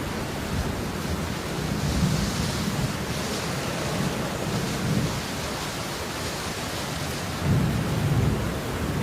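Steady, heavy rain hiss, with low rumbling swells under it; the strongest swell comes about seven and a half seconds in.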